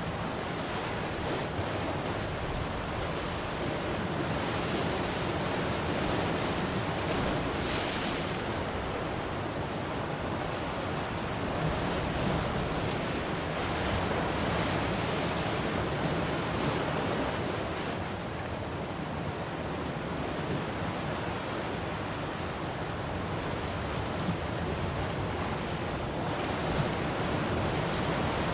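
Ocean waves breaking and washing up on a shore, a continuous surf rush that swells and eases every few seconds, with some wind on the microphone.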